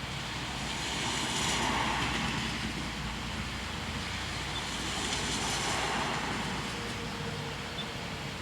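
Two vehicles passing one after the other, each a swelling and fading hiss of tyres on a wet road, loudest about a second and a half in and again about five and a half seconds in, over a steady low rumble.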